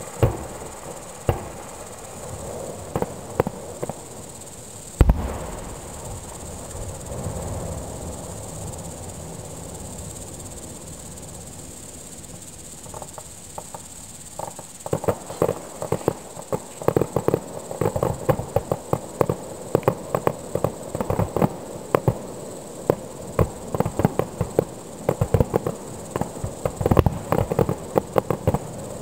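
Fireworks heard from about 2 km away: a few scattered single bangs in the first seconds, the loudest about five seconds in, then from about halfway a dense run of rapid crackling pops, many a second. A steady high chirring of insects runs underneath.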